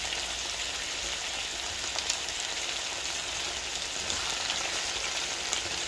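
Thinly sliced potatoes frying in oil in a wok on a high flame: a steady, even sizzle, with a couple of light spatula taps against the pan.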